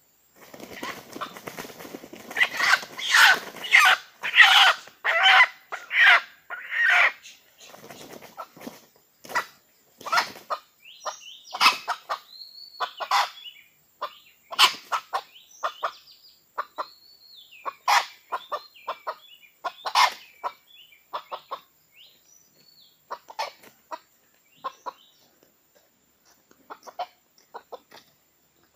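Junglefowl clucking and cackling: a run of loud calls in the first seven seconds, then scattered shorter clucks and a few drawn-out calls that thin out toward the end.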